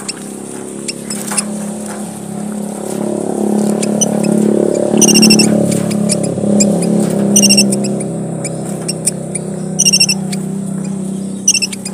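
Small red finches (emprit merah papua) calling: scattered high, thin chirps and three short runs of rapid chirping, about five, seven and ten seconds in, over a steady low hum.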